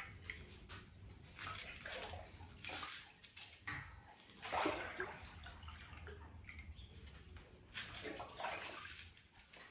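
Water being poured into a cooking pot, sloshing and splashing in irregular surges.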